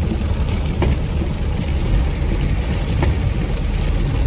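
Traffic in a jam: vehicle engines idling and running as a steady low rumble, with a few faint ticks.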